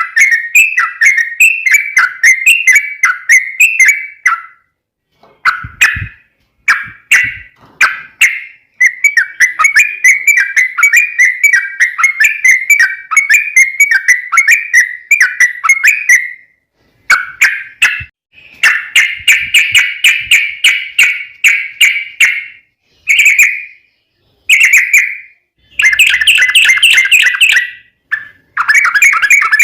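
Yellow-vented bulbul (trucukan) singing its long, rapid chattering song: runs of quick, bubbly notes several seconds long, broken by short bursts and brief pauses.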